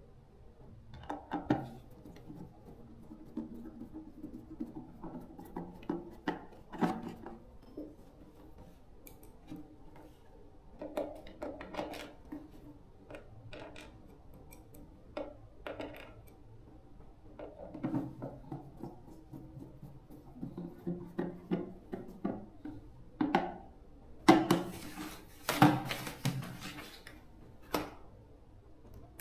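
Irregular clinks, taps and knocks of hard objects being handled, with a denser run of rattling strokes near the end.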